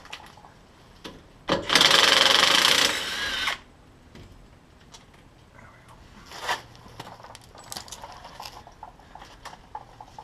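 Power drill with an 8 mm socket running in one burst of about two seconds, spinning out the small bolt that holds the ABS sensor wire. A few light metal clicks and taps follow.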